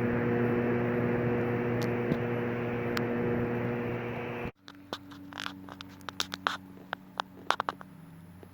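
Air traffic control radio channel open with no words: a steady, narrow-band hiss with a low hum, which cuts off suddenly about four and a half seconds in. After it comes fainter hum with scattered small clicks and crackles.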